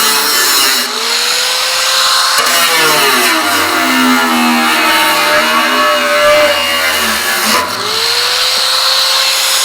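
Handheld power drill running while holes are drilled in a steel barrel: its motor spins up near the start and again about eight seconds in, holding a steady whine in between.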